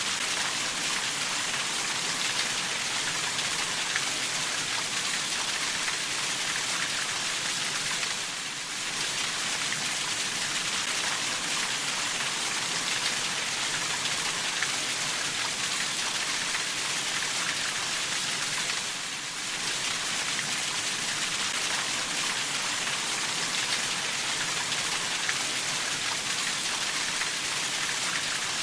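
Steady, heavy rainfall: a dense, even hiss of drops, easing briefly twice, about eight and nineteen seconds in.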